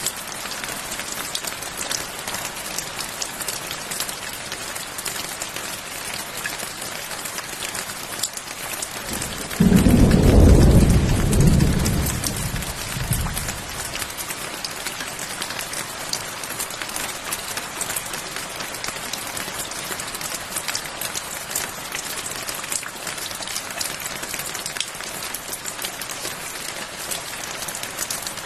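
Steady rain falling, a dense hiss of drops pattering on a surface. About a third of the way in, a clap of thunder breaks in suddenly as a loud low rumble that dies away over about four seconds.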